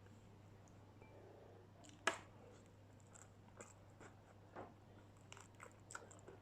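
Someone chewing and biting crispy battered fried food. One sharp crunch comes about two seconds in, followed by a few softer crunches.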